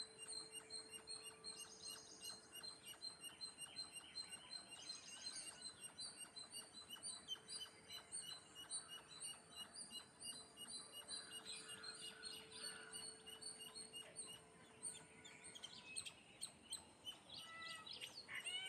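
Faint, rapid, overlapping chirping of house sparrows, with a steady low hum underneath.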